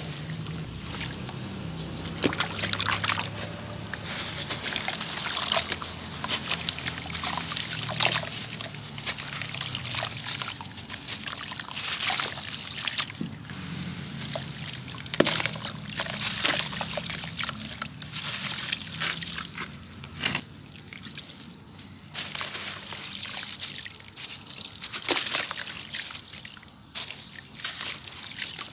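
Black grainy sand-cement bowls crumbling in water: many small gritty crackles over sloshing and trickling water.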